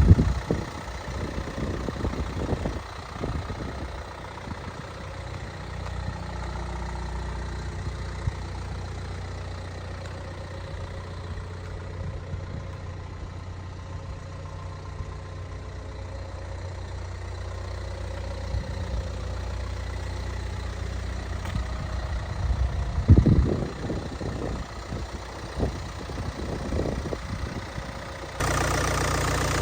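Kia Sportage 2.0 turbo-diesel engine idling steadily, with a few thumps in the first few seconds and again near the end.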